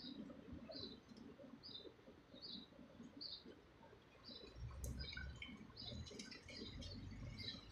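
Small bird chirping faintly and repeatedly, about one short high chirp every second; about halfway through, more chirps from other birds join in over a low rumble.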